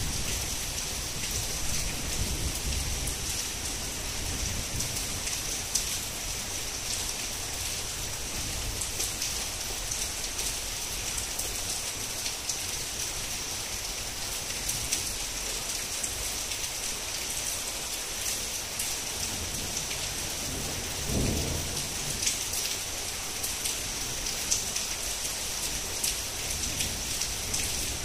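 Heavy rain falling steadily, with close drops landing in sharp ticks, and a brief low rumble about three-quarters of the way through.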